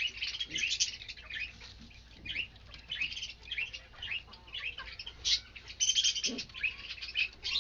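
Many small cage birds chirping and chattering rapidly in quick high notes, with a short lower sound about six seconds in.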